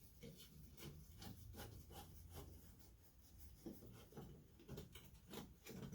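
Faint, scattered clicks and light knocks with some rubbing, the small noises of hand work with tools and parts.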